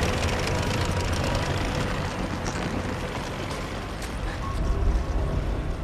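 Heavy tanks approaching in a film soundtrack: a steady deep engine rumble with scattered metallic clanks.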